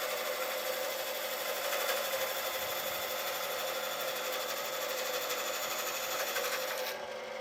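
An electric power tool running steadily, a dense mechanical whir with a hissy top. Near the end the high hiss cuts off and the sound turns duller and a little quieter.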